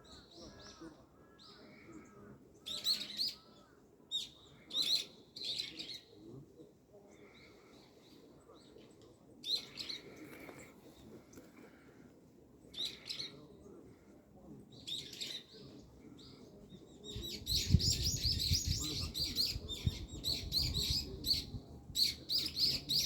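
Small birds chirping in short scattered bursts of high notes. In the last six seconds they become a dense, busy chatter, with a low rumble underneath.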